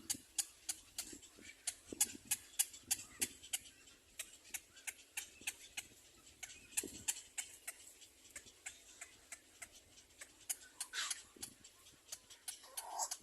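A run of irregular sharp clicks, about three or four a second, with a few soft low thuds mixed in.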